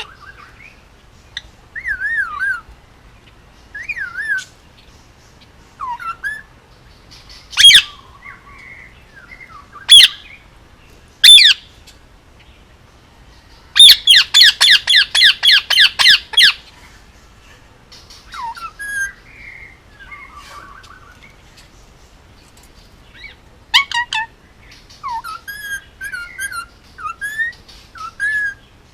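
Indian ringneck parakeet chirping and giving short whistled calls that slide up and down in pitch. Three loud shrieks come in a row, followed about halfway through by a rapid run of about a dozen loud squawks, then more chattering chirps.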